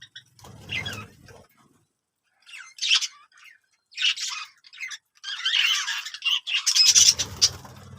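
Birds squawking and chirping in short separate calls, then a longer, busier stretch of calls in the last few seconds. Low rustling noise comes in about half a second in and again near the end.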